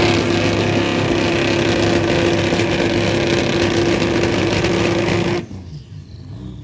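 A drag-racing car's engine revving up and held at a steady high rpm over a loud rushing noise. It cuts off abruptly about five and a half seconds in.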